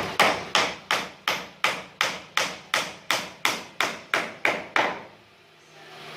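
Hammer blows on wood during carpentry, struck at a steady rate of about three a second. They stop just under five seconds in.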